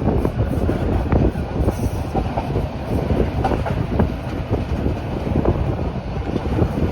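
Rhaetian Railway regional train running on the Bernina line: a loud, steady rumble of wheels on rails with frequent irregular clacks and knocks.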